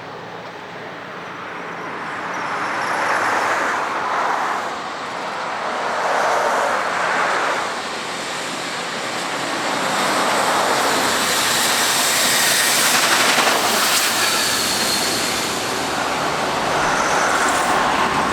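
Union Pacific Big Boy 4014 steam locomotive and its train rolling past: a steady rushing noise that swells and eases several times and grows louder in the second half.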